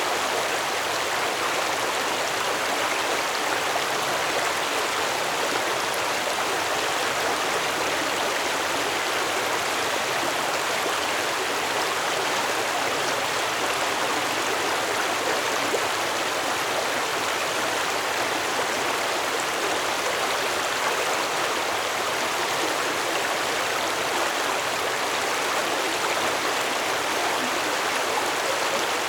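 Stream water flowing steadily over rocks, a constant rushing and babbling.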